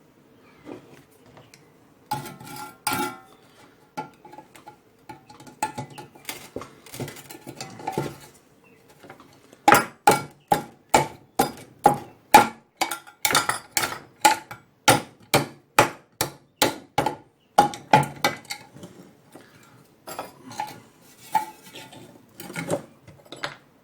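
Metal parts of a homemade copper and brass lamp clinking and scraping as the old electric fitting is worked loose. From about ten seconds in to about eighteen comes a regular run of sharp, ringing metallic taps, about two or three a second.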